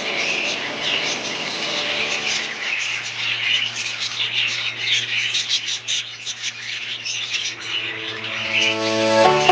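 A flock of budgerigars chattering and chirping continuously in rapid high twitters. A low steady hum runs beneath from about three seconds in, and music comes in near the end.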